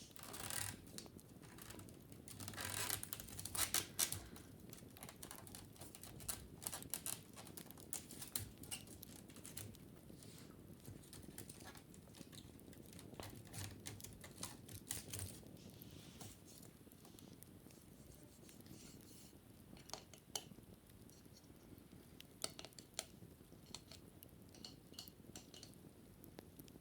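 Wicker basket being handled and scratched: scattered light clicks and rustles, with a busier stretch of scratching in the first few seconds.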